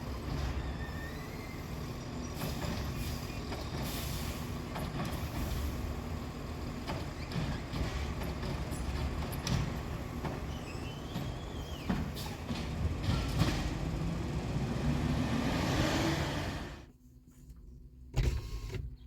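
Freightliner 108SD side-loader garbage truck working: the engine runs steadily under scattered clanks and knocks, a whine rises in pitch about fifteen seconds in, then the sound cuts off abruptly, and one loud knock follows near the end.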